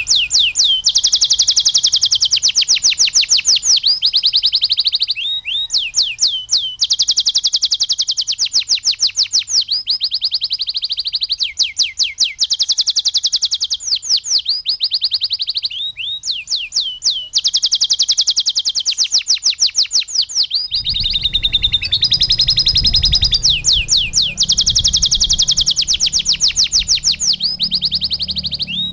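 Domestic canary singing continuously: fast trills of rapidly repeated sweeping notes, in phrases of a few seconds each that change pattern from one to the next. A low rumble sits underneath from about two-thirds of the way in.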